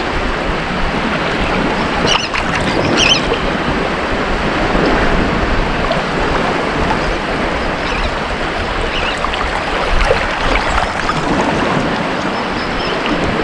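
Ocean surf washing continuously onto a beach, a steady rushing noise that swells and eases gently.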